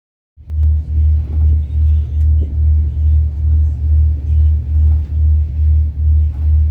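A ferry's diesel engine and propeller throbbing underway: a deep, steady rumble that pulses evenly about twice a second, starting suddenly just after the beginning.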